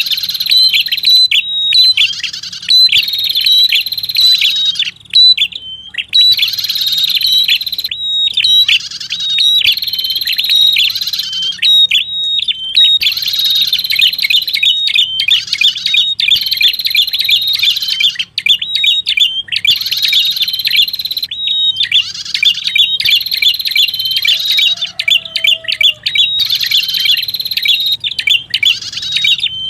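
Lure call of the prenjak kepala merah, a small songbird: loud, rapid, high chattering notes repeated in phrase after phrase a second or two long, with short breaks between them.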